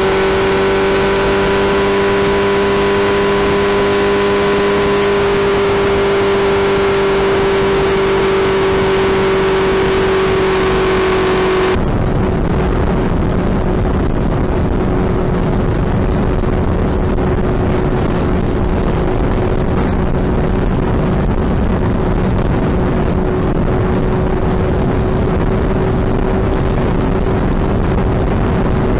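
Suzuki Hayabusa inline-four engine and exhaust running as a steady drone at an unchanging pitch, with wind buffeting the microphone. About twelve seconds in the sound turns abruptly duller and windier while the engine note holds.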